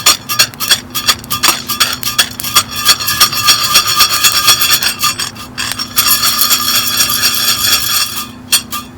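Freshly roasted coffee beans rattling and scraping inside a metal hand roaster as it is shaken, a dense continuous clatter with a metallic ring that thins out near the end. The beans have just been taken past second crack and are being cooled.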